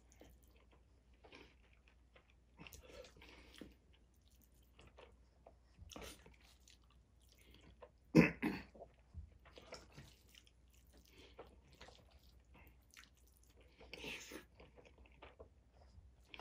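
A man chewing and biting through big mouthfuls of orange chicken and rice, with faint scattered clicks of a utensil scooping food in a stainless steel bowl. A louder sharp knock comes about eight seconds in.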